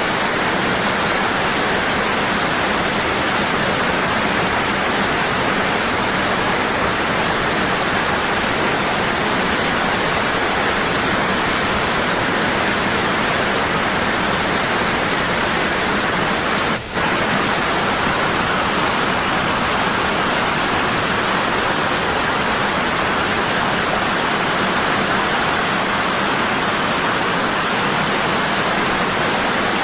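Waterfall, water falling hard and constant in a steady rush, with a momentary dropout about halfway through.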